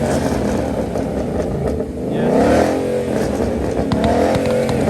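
Car engines revving as cars pull away and pass, the pitch climbing and falling about two seconds in and again near the end.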